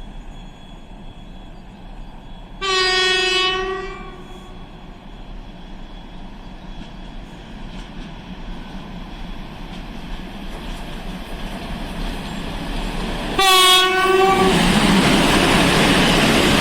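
2ES6 Sinara electric locomotive sounding its horn twice, a blast of about a second some 3 seconds in and another near the end, as it approaches with a freight train. Under the horn the train's rumble grows steadily, and after the second blast it turns into the loud rolling noise of the train passing.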